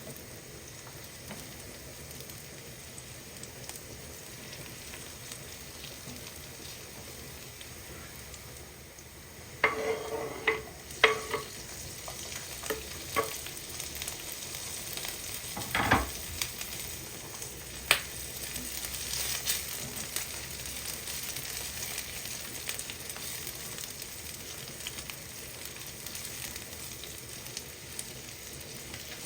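Food frying in a pan: a faint hiss at first, then a few sharp knocks of a utensil on the pan about ten to thirteen seconds in and a heavier knock a little later, after which the sizzling grows louder and stays steady.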